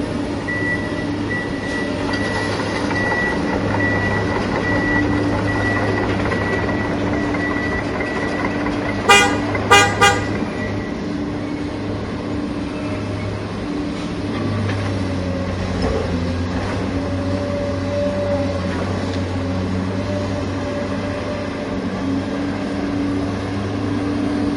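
Steady engine-like hum running throughout, with three short horn toots in quick succession about nine to ten seconds in.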